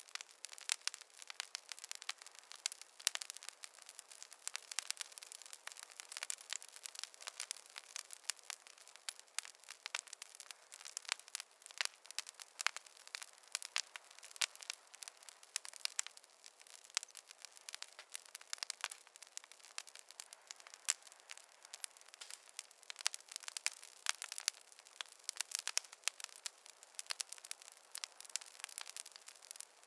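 Campfire crackling: a dense, irregular run of small pops and snaps over a soft hiss.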